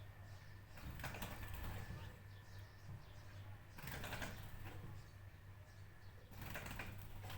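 Faint bird sounds with three short noisy bursts, about a second, four seconds and six and a half seconds in, over a steady low hum.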